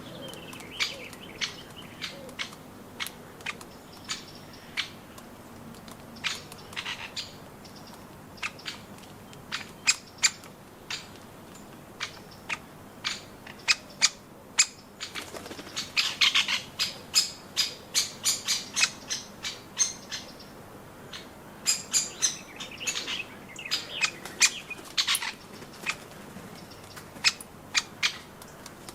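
Small birds at a nut feeder: a scatter of sharp pecking taps and knocks, with wing flutters and short chirps. The taps grow busier about halfway through.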